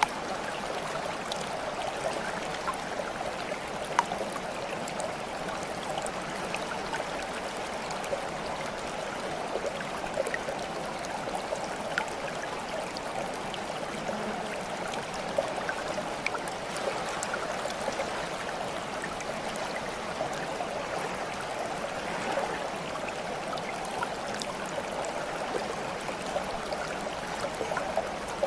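Running water babbling and trickling steadily, with small scattered droplet-like splashes.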